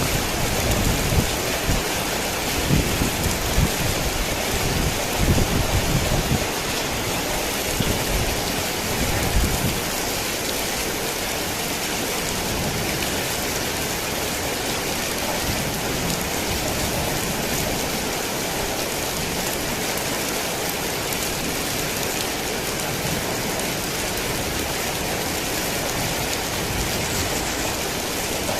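Heavy rain pouring steadily, with a low rumble of thunder during the first several seconds that dies away about ten seconds in.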